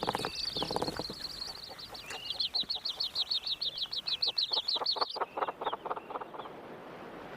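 Yellow-billed hornbill chicks squeaking inside their nest hole: a fast run of high squeaks, about seven a second, from about two seconds in until about five seconds in. Lower, rapid pulsed notes come at the start and again after the squeaks stop.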